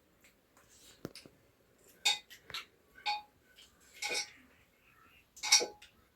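Metal dishes and utensils clinking and scraping: about six sharp knocks with a short ring, the loudest one near the end.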